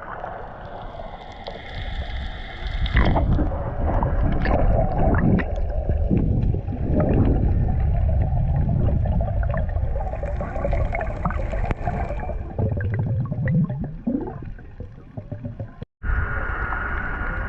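Muffled sea water gurgling and sloshing around a camera in the water, with a dense low rumble and many small clicks and knocks. A brief dropout near the end, then a steadier sound.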